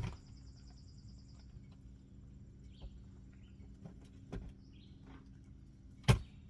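Small birds chirping, with a fast high trill in the first second and a half and scattered short chirps after it. Two sharp clicks, one at the start and one about six seconds in, and a few soft knocks come from kitchen things being handled.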